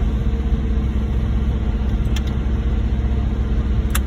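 Heavy diesel truck engines running steadily during a concrete pump pour, a low rumble with a steady hum. A short click sounds near the end.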